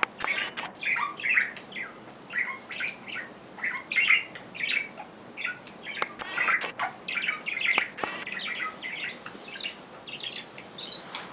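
A small bird calling over and over in short, sharp chirps, several a second, the way a songbird scolds and mobs a cat.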